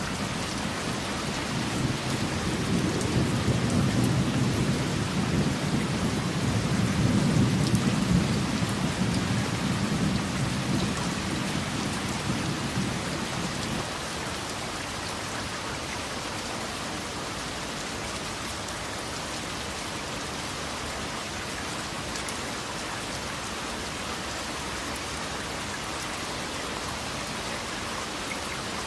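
Steady rain falling, with a long low rumble of thunder that swells from about a second in, peaks about eight seconds in and cuts off abruptly about fourteen seconds in, leaving the rain alone.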